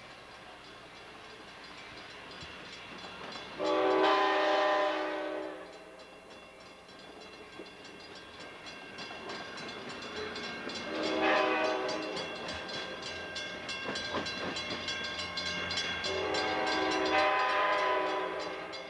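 Diesel passenger locomotive, an EMD F59PHI, sounding its multi-chime air horn three times: a long blast, a shorter one, then another long one. The engine runs and the wheels clatter between the blasts as the train gets under way.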